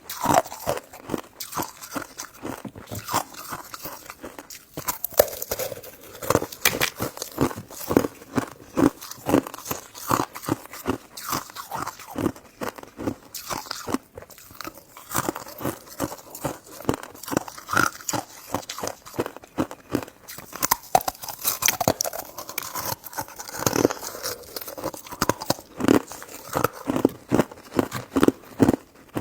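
Close-miked chewing and biting of soft, chewy sweet desserts: a dense, irregular run of quick mouth clicks and smacks, several a second.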